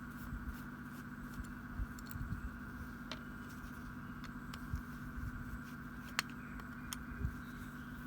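Soft irregular knocks and a few sharp clicks of small parts being handled, over a steady background hum.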